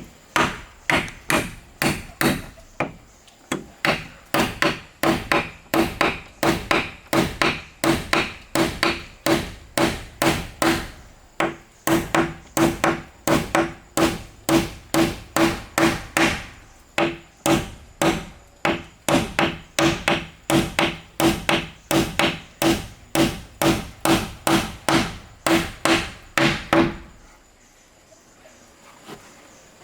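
A hammer striking wood in quick, steady blows, about two a second, each with a short ring. The hammering stops about three seconds before the end.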